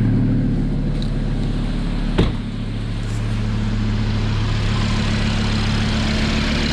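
Audi RS3's 2.5-litre turbocharged five-cylinder engine idling steadily after a fresh start, with one sharp knock about two seconds in.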